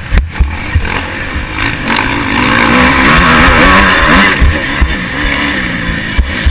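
Motocross bike engine on an onboard camera, its pitch climbing and dropping as it revs, loudest through the middle of the clip. Heavy wind buffeting and repeated thuds on the microphone run under it.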